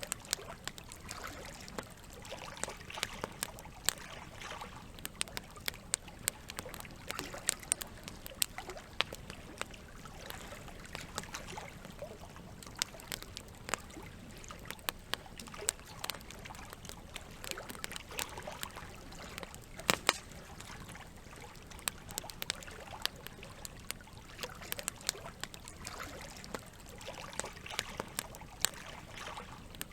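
Campfire crackling, with frequent sharp pops and one louder crack about twenty seconds in, over the steady sound of running water.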